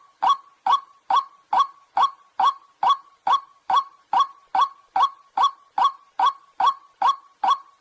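White-breasted waterhen calling: one short, sharp note repeated at a steady, even pace of about two notes a second.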